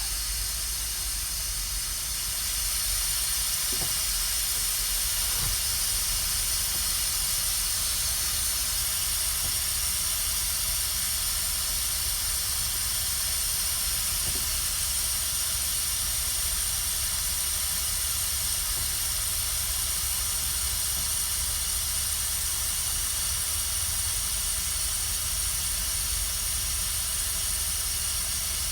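A steady hiss with a low rumble beneath it, unchanging throughout.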